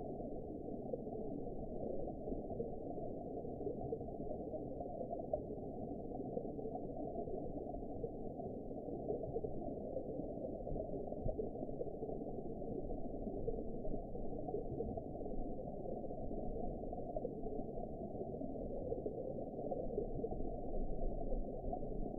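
Underwater ambience: a steady, muffled, low rushing noise with nothing in the higher range, unchanging throughout.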